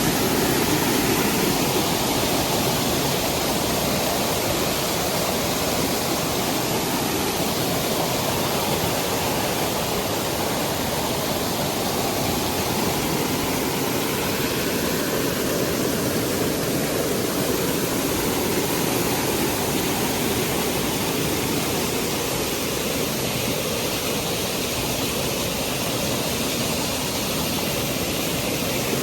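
Waterfall rushing: a loud, steady, even roar of falling water that holds unchanged throughout.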